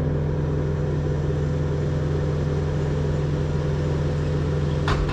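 A machine engine running steadily at a constant low idle, with one sharp metallic knock about five seconds in.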